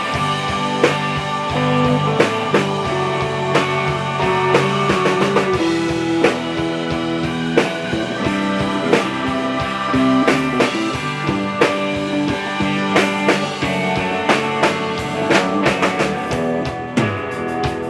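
Song played on a drum kit and guitar, with a steady beat.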